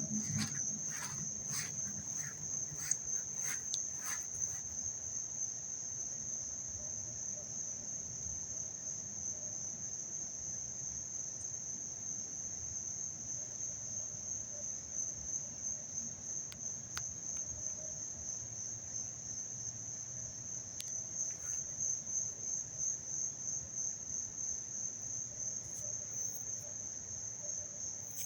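Insects trilling steadily at one high pitch, with a few faint clicks in the first few seconds.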